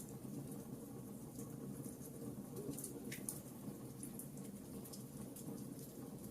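Wood fire burning in a fireplace: a steady low rumble of flames with irregular small crackles and pops from the logs, one sharper pop about three seconds in.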